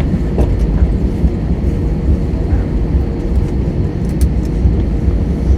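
Airbus A321 cabin noise: a steady low rumble of engines and airflow, with a faint steady hum and a few light clicks and rattles.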